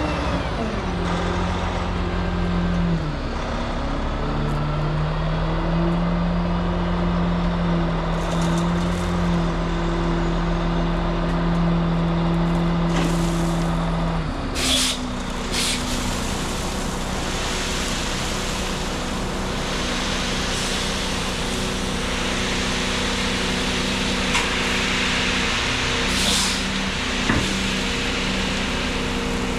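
Heavy dump truck's engine running, its pitch dipping and rising early on and shifting about halfway through, with short air-brake hisses at that point and again near the end.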